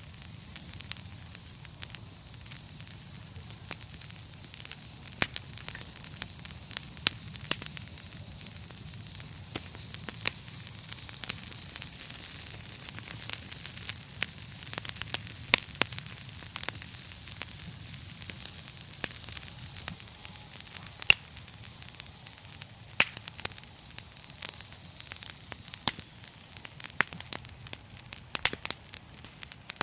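Wood fire crackling, with frequent sharp, irregular pops and snaps over a steady soft hiss.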